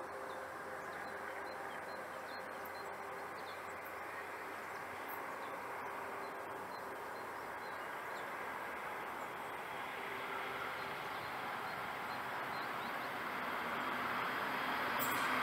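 Train approaching along the track out of sight, a steady rushing noise that grows gradually louder toward the end.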